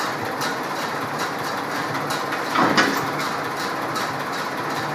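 Ford tractor engine running steadily, with a brief louder noise about two and a half seconds in.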